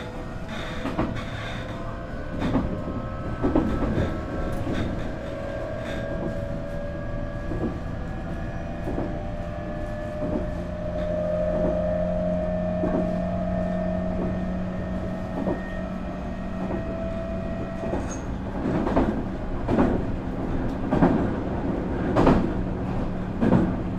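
Running sound inside a Nankai 8300 series motor car: a Hitachi two-level IGBT VVVF inverter and Toyo Denki TDK-6315-A totally enclosed induction traction motors whining in several steady tones that rise slightly and then hold, over the rumble of the car. Wheels clack over rail joints throughout, coming faster near the end.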